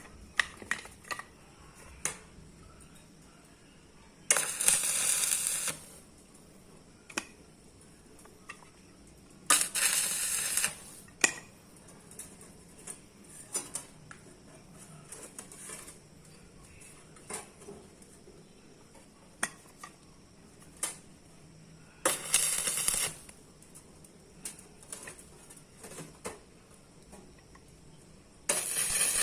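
Metalworking on steel plate: four separate bursts of hissing noise, each a second or so long, among many light metallic clinks and taps.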